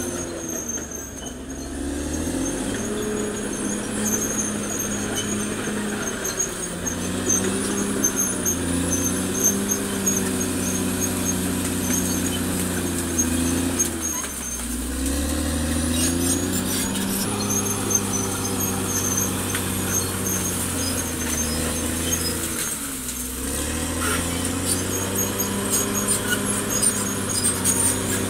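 Caterpillar D6R XL bulldozer's diesel engine working under load, with a high squeal running over it. The engine note drops briefly three times, about a second in, about halfway, and past two-thirds, and picks back up each time.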